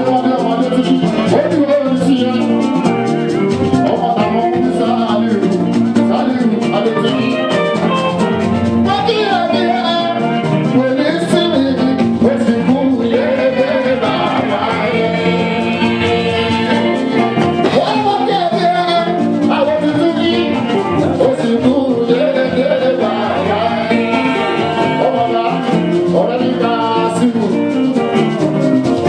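Fuji band music with a lead singer's voice over busy percussion, playing steadily throughout.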